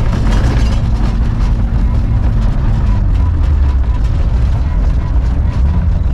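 VW Kombi van engine running under way, heard from inside the cab, with knocks and rattles from the body over a rough road. The engine note drops about two and a half seconds in.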